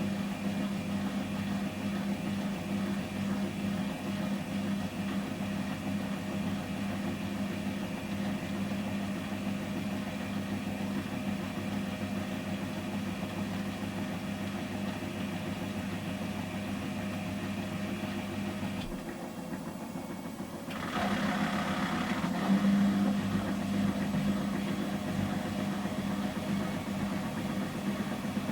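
Samsung Series 5+ front-loading washing machine in its intermediate 800 rpm spin: a steady motor hum that drops away briefly about 19 seconds in, then comes back louder with an added rushing noise.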